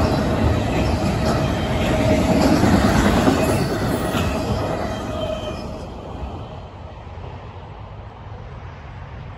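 CSX freight train of autorack cars rolling past, wheels on the rails with a steady squealing tone. The sound drops away about six seconds in as the last car passes, leaving a low rumble.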